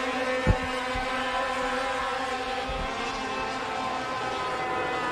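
Engines of a pack of racing sport trucks running hard on the restart, several engine notes layered and drifting in pitch. One short thump about half a second in.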